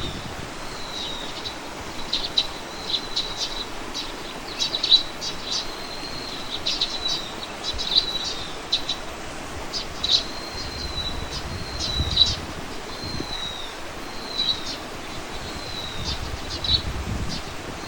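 Songbirds chirping and singing: a steady run of short high tweets and brief whistled glides. A low wind rumble on the microphone comes and goes.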